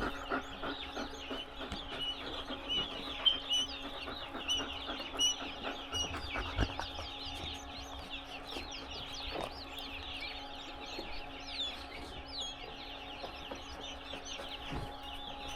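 Many newly hatched quail chicks peeping together, a constant chorus of short, high, falling peeps, over a steady low hum.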